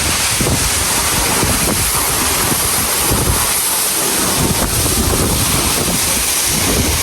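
Loud, steady rush of a waterfall close by, with spray and wind buffeting the microphone in uneven low gusts.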